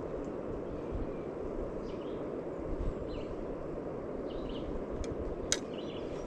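Steady rushing of river water, with one sharp click about five and a half seconds in.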